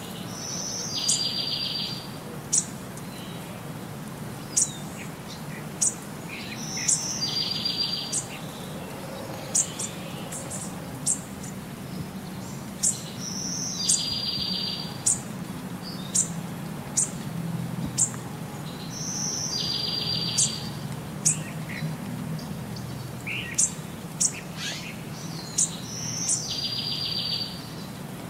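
A songbird singing the same short song about every six seconds, a high note followed by a buzzy trill, with sharp high chirps scattered between.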